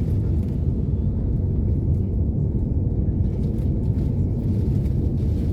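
Steady low rumble of an Airbus A330 heard inside the passenger cabin, with the engines not yet at takeoff thrust as the airliner waits for its takeoff roll.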